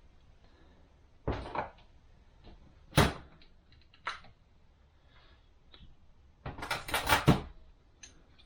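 Sharp knocks and clatter of transmission parts being handled and set down on a workbench: a pair of knocks about a second in, a loud single knock at three seconds, another just after four, and a quick run of clatter around seven seconds.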